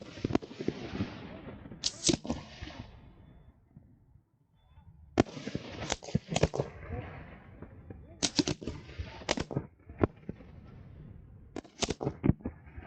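Fireworks going off at a display: sharp bangs in clusters every second or two, with crackling noise between them and a short lull about four seconds in.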